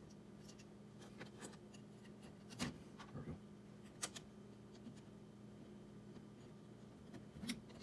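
A few sharp clicks and taps of small metal hardware (screws, nuts, washers, springs) being handled while fitting the 3D printer's bed corner springs, over a faint steady hum.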